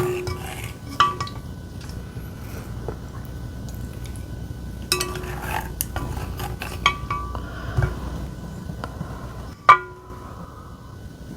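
Eating utensils clinking and scraping against a ceramic bowl and dishes: scattered light clinks that ring briefly, with the sharpest clink near the end.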